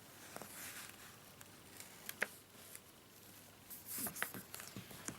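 Soft rustling and handling noises, with a sharp click about two seconds in and a brief flurry of rustles and clicks near the end.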